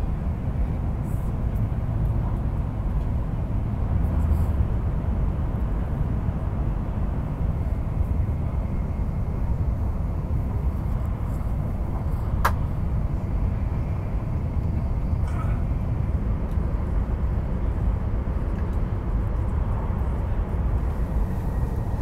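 Steady low running noise of a Shinkansen E5 series bullet train at speed, heard from inside the passenger cabin, with a single sharp click about halfway through.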